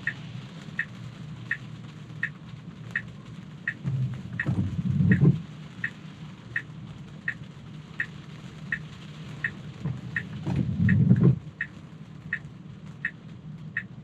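Car turn-signal indicator ticking evenly, about once every three-quarters of a second, for a right turn. Twice, about four and ten seconds in, the windshield wipers make a louder, low swish across the glass in the rain.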